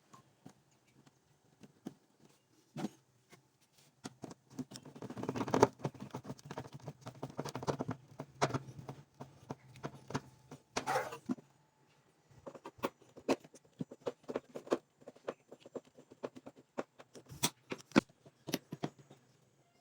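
Irregular knocks, taps and clicks, with a stretch of denser scraping or rustling a few seconds in and another short burst of it about 11 seconds in.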